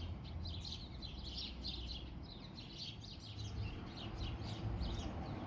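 Small songbirds chirping: a busy run of short, high chirps, several a second.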